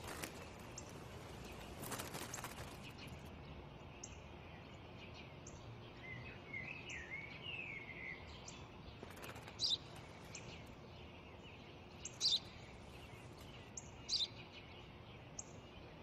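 Small birds chirping: short, sharp chirps every couple of seconds, and a brief warbling phrase in the middle, over a faint steady outdoor hiss.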